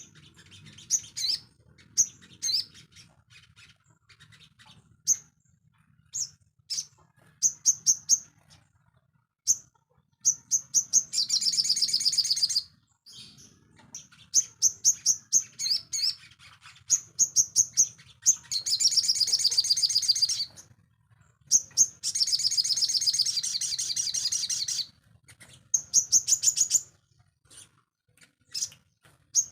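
A sogon songbird singing a high, rapid chattering song: clusters of sharp chips broken by several long, fast trills of one to three seconds. It is a bird in full song ('gacor').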